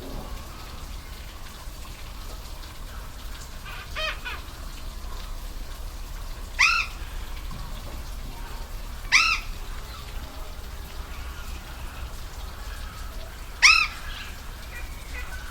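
Steady rush of a waterfall, with a bird calling: three loud short calls a few seconds apart and a fainter one about four seconds in.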